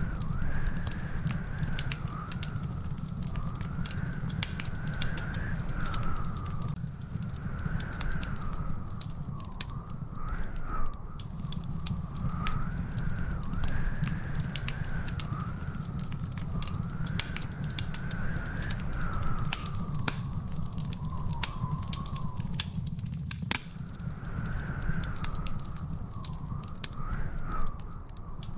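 Wood fire in a fireplace crackling and popping, with many sharp snaps over a steady low rumble. A faint whistle wavers slowly up and down in pitch throughout.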